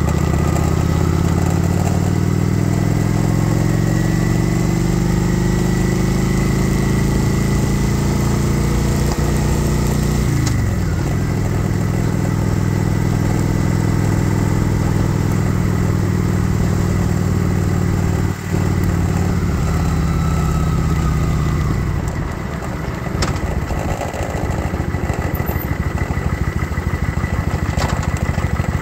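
Kawasaki Vulcan 900 Classic's 903 cc V-twin engine heard from the saddle, revs climbing slowly, then falling sharply about ten seconds in. It runs steadily, then drops to low revs with a pulsing beat for the last several seconds as the bike slows in traffic.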